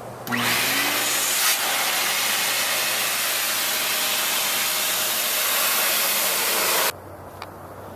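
A steady blast of air from a blower, blowing water out of a freshly washed engine bay to dry it. It starts abruptly and cuts off suddenly near the end.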